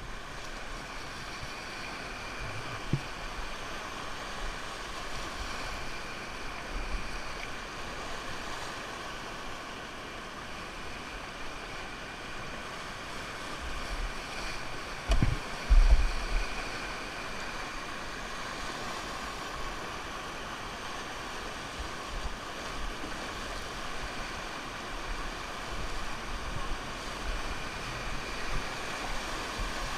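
Steady rush of river water, with wind buffeting the microphone in low thumps about halfway through.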